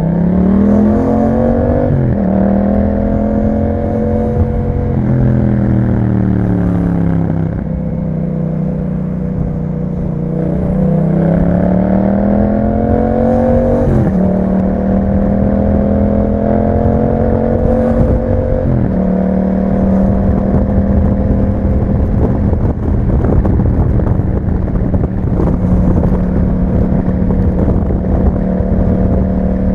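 2021 Yamaha MT-07's 689 cc parallel-twin engine running through an Akrapovic exhaust with a dB killer, under way: it revs up and drops in pitch at an upshift about two seconds in, holds, then eases off and falls away. It pulls again, with further upshifts about fourteen and nineteen seconds in, then settles to a steady cruise.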